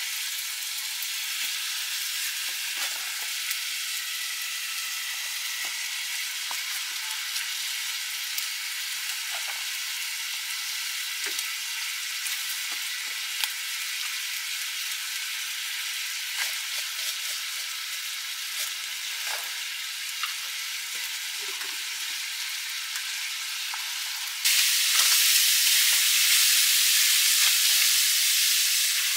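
Food frying in a pan over a wood fire: a steady sizzle with scattered light clicks as it is stirred. About 24 seconds in, the sizzle suddenly gets louder.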